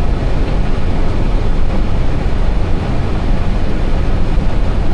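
Airbus A320 cockpit noise on final approach: a steady, loud rush of airflow and engine noise, heaviest in the low rumble.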